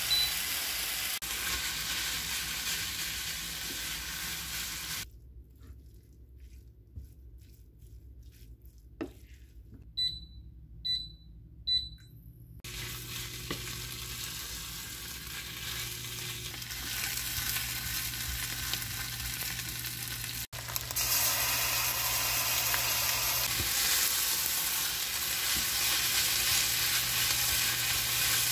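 Kimchi fried rice sizzling in a pan on an induction cooktop while it is stirred with a spatula. The cooktop's touch controls beep once at the start, and three more times about a second apart in a quieter stretch midway. The frying gets louder again near the end.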